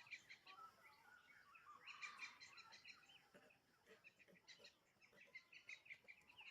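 Faint, busy chirping and twittering of birds, with a brief burst of louder gliding notes about two seconds in.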